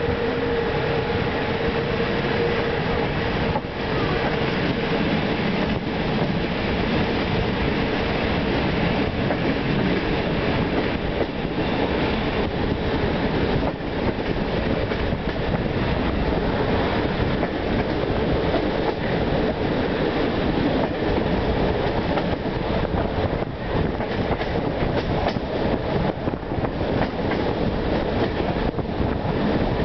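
Train running on the rails, heard from on board: a steady rumble of wheels and carriage with rail-joint clicks, which come more often toward the end as it picks up speed. A faint held whine sounds in the first few seconds.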